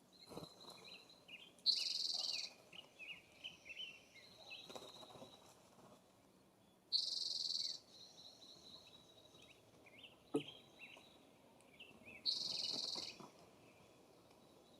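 Birds at a feeder: three loud, harsh calls about five seconds apart, with quick short chirps from smaller birds between them, and a single sharp tap about two-thirds of the way through.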